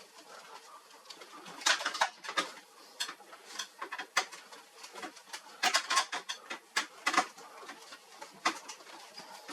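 A run of irregular sharp clicks and light knocks, bunched about two seconds in and again around six to seven seconds in.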